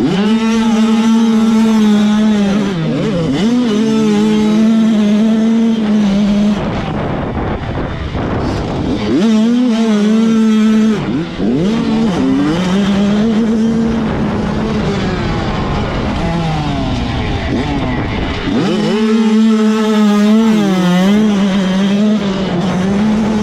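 85cc two-stroke motocross bike engines racing: a high, buzzing engine note held at high revs in three long stretches, dropping and climbing again in between as the throttle is chopped and reopened.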